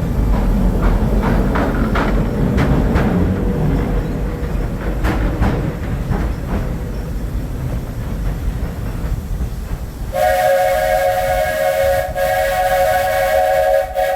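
Walt Disney World Railroad steam train running along the track with clicks from the wheels. About ten seconds in its steam whistle blows a chord of several tones in long blasts with short breaks.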